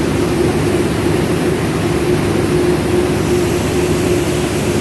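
Rice milling machine running steadily, a loud even machine noise with a constant hum.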